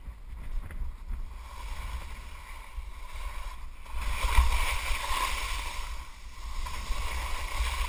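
Skis carving and scraping down a snow gully, with wind rushing over the microphone. It gets louder from about four seconds in.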